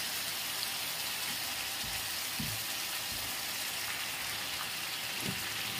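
Marinated chicken tikka pieces sizzling as they shallow-fry in very hot oil in a pan: a steady hiss, with a few soft knocks.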